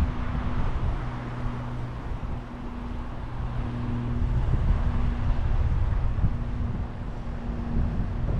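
Wind rumbling on the microphone over the wash of the surf, with a faint steady low hum that drops out now and then.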